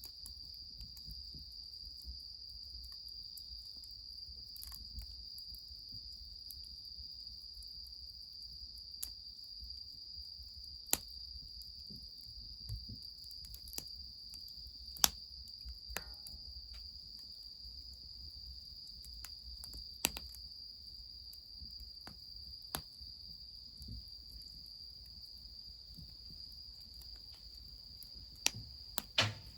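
Crickets trilling in one steady high-pitched band, with scattered sharp pops and cracks from a wood fire crackling, a few close together near the end.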